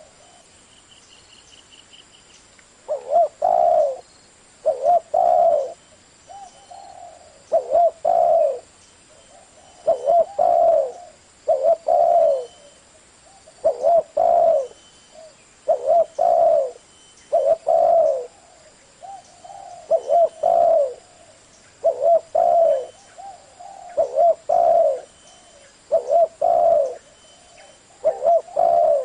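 Spotted dove cooing in its deep 'giọng thổ' voice. Short phrases of a few coos repeat every one to two seconds, starting about three seconds in.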